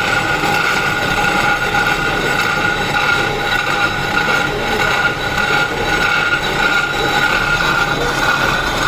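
Electric power tool working stone, a steady high whine over grinding noise.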